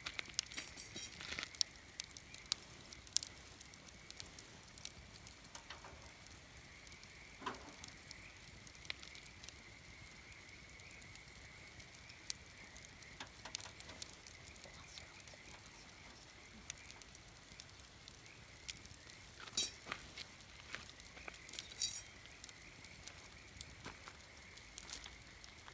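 Wood campfire burning, with irregular crackles and pops scattered throughout. A faint steady high tone runs underneath.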